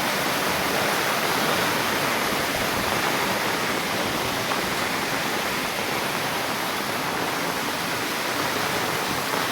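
Steady rush of a heavy downpour, with rainwater pouring and running off in a torrent.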